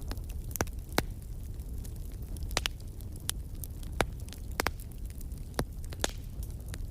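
Wood fire crackling in a fireplace: irregular sharp pops and snaps over a steady low rumble of the flames, the loudest pops about a second in and about four seconds in.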